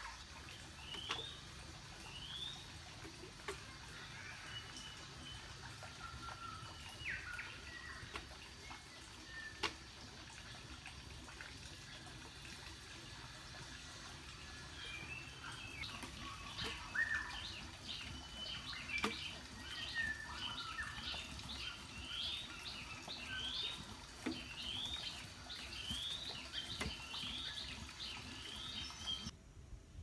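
Birds calling outdoors: short rising chirps, sparse at first and then repeating about once a second through the second half, with other brief bird notes. A few sharp knocks, one louder about a third of the way in.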